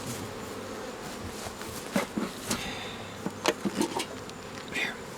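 Honeybees buzzing around an open hive in a steady hum, with a few short light clicks and knocks between about two and four seconds in.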